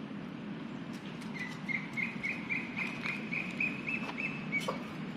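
A bird calling: a rapid run of short, high chirps at one pitch, about five a second, lasting about three seconds, with a few faint clicks alongside.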